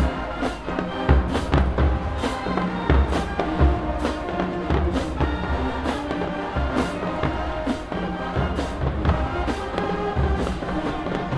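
Marching band playing: brass over drums, with heavy low notes and frequent cymbal crashes.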